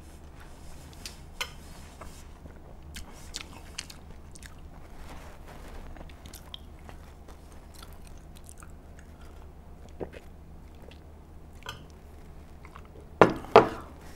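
A person chewing and biting food close to the microphone, with soft wet clicks and smacks scattered through. Two much louder sharp sounds come near the end.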